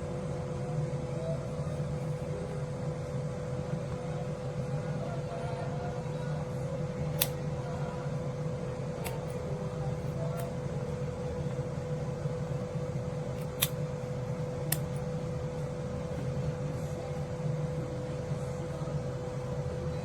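SUPGALIY travel hair dryer running steadily, blowing air with a constant whine from its motor. A few faint clicks sound over it.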